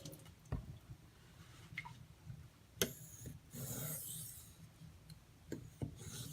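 Steel knife blade drawn across a wet Arkansas whetstone, one stroke lasting about a second just after the middle, with a few light clicks and taps as the blade meets and leaves the stone.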